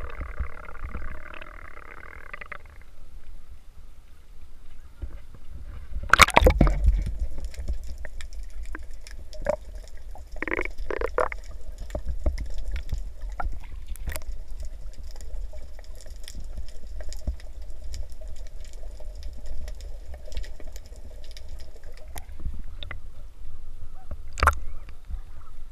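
Sea water lapping and splashing close to the microphone, with a constant low rumble and small handling clicks. A loud splash or knock comes about six seconds in. A faint steady hum, like a distant motorboat, runs through the middle.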